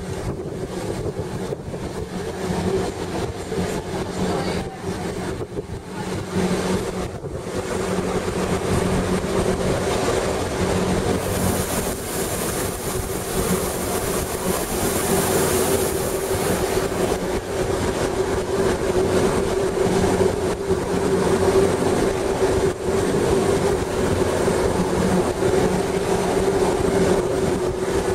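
Electric rack-railway train of the Gornergratbahn heard from on board as it runs downhill, with a steady electric motor hum over the rumble of the running gear. A high hiss swells for several seconds about halfway through.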